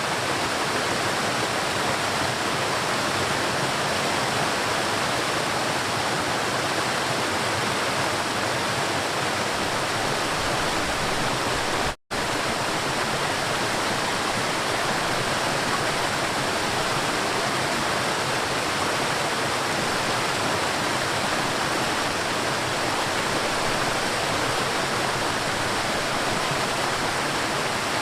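River water flowing, a steady, even rush. It cuts out completely for a split second about twelve seconds in.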